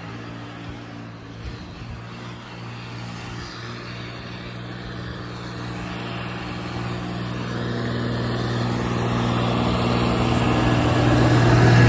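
Snowplow truck approaching: a steady low engine hum that grows steadily louder, loudest near the end as it draws close.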